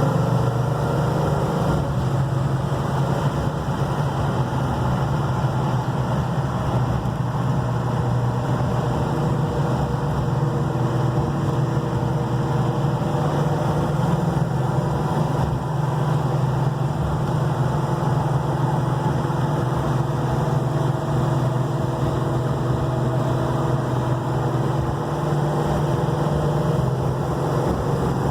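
A 1969 Dodge Charger's 440 Magnum big-block V8 running at a steady pitch while the car is driven, with road noise and no revving.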